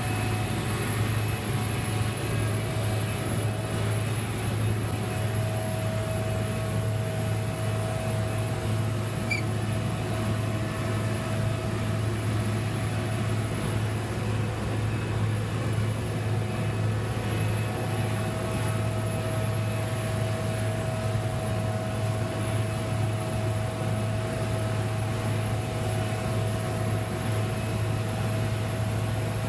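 Heavy machinery engine running steadily: an unchanging low drone with a faint steady higher tone over it.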